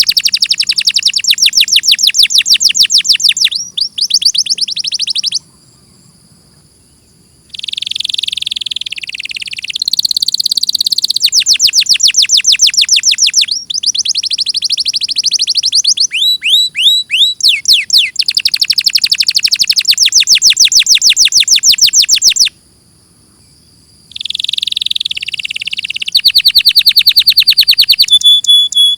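Domestic canary singing: long, fast trills of repeated sweeping notes, phrase after phrase at changing speeds. The song breaks off twice for about two seconds, near the quarter mark and about three-quarters through.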